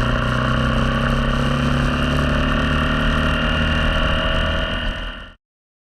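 Motorcycle engine, a single-cylinder four-stroke Honda TMX 125, running steadily under way, with a slight rise in pitch and a broad rush of road and wind noise. It cuts off suddenly near the end.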